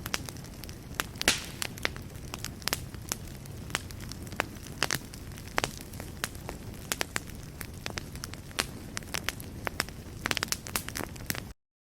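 Wood fire burning in a fireplace: a steady low rumble with irregular sharp crackles and pops, a quick flurry of them near the end, then the sound cuts off suddenly.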